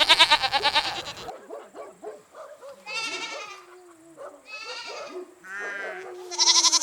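Goat bleating about five times, each call wavering in pitch. The first, right at the start, is the loudest and longest.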